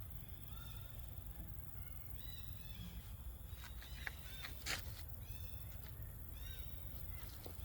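Animal calls: short, high, squeaky calls in several small clusters, with a sharp click about halfway through, over a steady low background hum.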